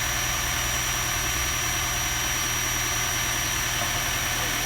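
2017 Honda Accord Hybrid running at idle, a steady low hum with a thin, steady high-pitched tone over it. The owner takes the noise for abnormal and is unsure whether it comes from the engine or from the battery charging; the dealer called it normal.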